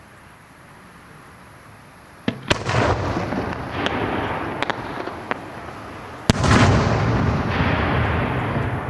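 Aerial firework shells bursting: after about two seconds of quiet, a sharp bang followed by rolling rumble and crackle, a few smaller reports, then a second loud bang about six seconds in with more rumble and crackling.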